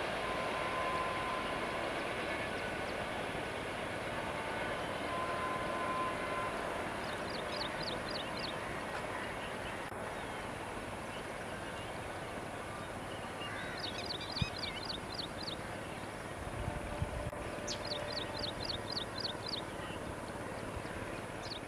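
Steady running noise of an LHB express train moving away along the track, slowly fading as it recedes. Short runs of quick, high chirping notes come in several times in the second half.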